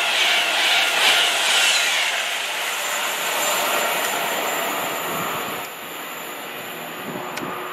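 Express passenger train passing at speed: a loud rush of air with a rapid rhythmic clatter of wheels on the rails, fading away over the next few seconds as it recedes.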